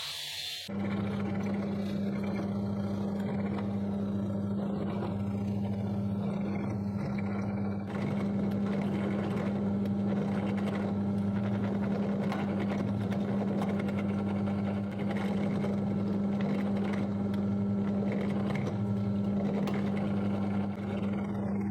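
A power tool's electric motor running steadily with a constant hum and a hiss of grinding or spinning noise, coming in abruptly just under a second in.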